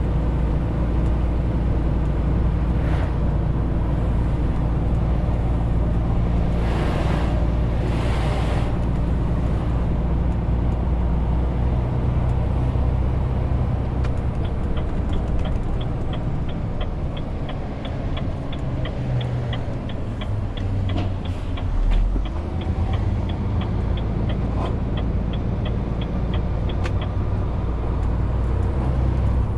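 Renault T520 truck's diesel engine running steadily under load. Two short hisses come about 7 and 8 seconds in, and from about halfway a fast, even ticking runs until near the end.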